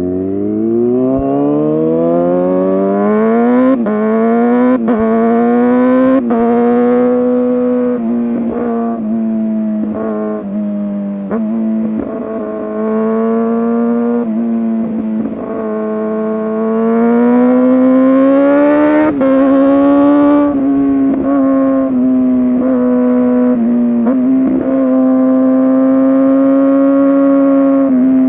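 Kawasaki ZX-6R 636 inline-four with an SC Project exhaust, accelerating hard. Its pitch climbs steeply over the first few seconds, then holds at high revs with several brief dips and breaks, and rises again later.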